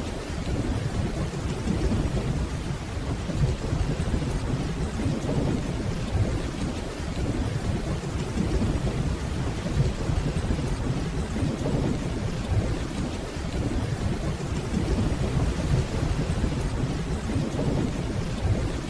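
Steady rainfall with a continuous low rumble of distant thunder underneath, with no sharp claps.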